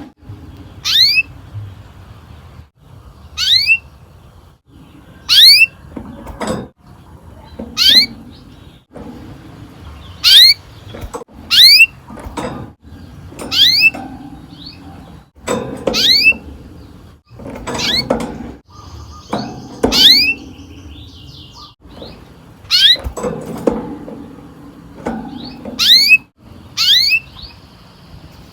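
Domestic canary giving sharp, steeply falling chirp calls ('cuit'), about one every one and a half to two seconds, with loud knocks between the calls.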